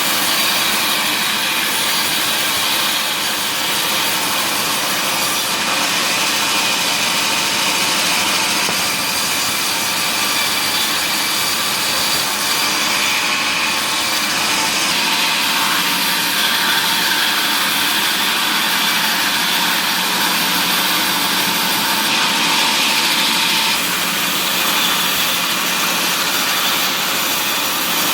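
Power saw in a woodworking mill cutting mahogany, running steadily with a constant low hum under the cutting noise.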